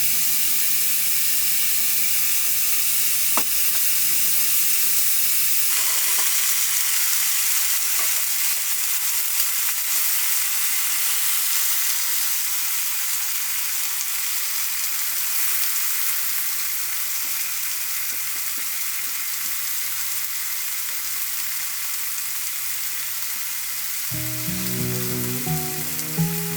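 Food sizzling steadily in a frying pan. Soft music comes in near the end.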